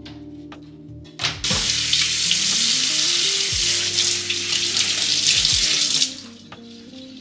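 Kitchen tap running water into a sink. It is turned on about a second and a half in and shut off about a second before the end.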